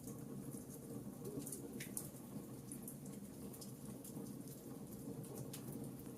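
Fireplace fire crackling: frequent small, sharp pops and ticks over a steady low rumble of the flames, with one louder pop about two seconds in.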